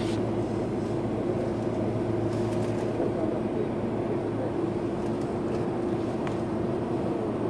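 Inside a Sotetsu New 7000 series electric train car: a steady electrical hum with a constant low tone and a constant mid tone over an even rumble. There is no rising motor whine.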